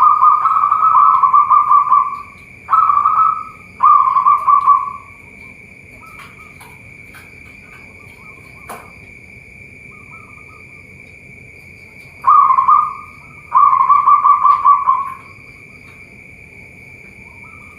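Zebra dove (perkutut) cooing in rolling, pulsed phrases: a long coo and two short ones fade out about five seconds in, and a second group of coos comes about twelve seconds in. A steady high-pitched hum lies under it.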